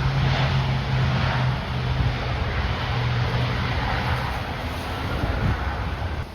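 Gusting wind buffeting the microphone over the low, steady drone of an arriving airliner's jet engines, which fades out about four seconds in.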